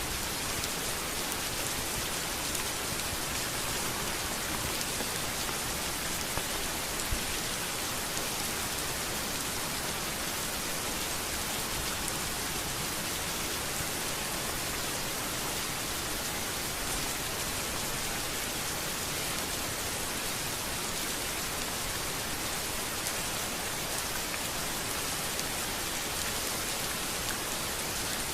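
Steady rain falling on a street, a dense, even hiss with a few sharper drop ticks standing out, one about seven seconds in.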